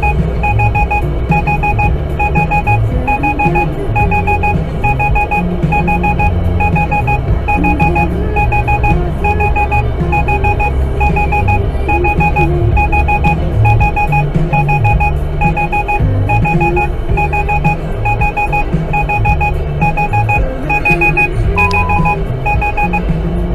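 Rapid electronic beeping in short clusters, repeating steadily about one and a half times a second, over a loud low rumbling bass.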